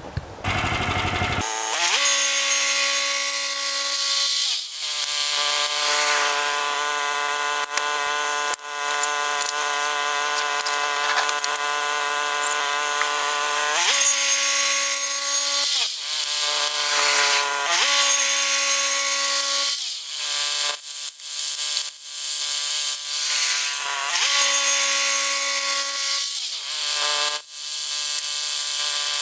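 Woodland Mills HM122 portable bandsaw mill running and sawing a large pine log with a freshly resharpened blade: a steady machine note over a sawing hiss. The pitch dips briefly several times, and the sound breaks off in short gaps near the end.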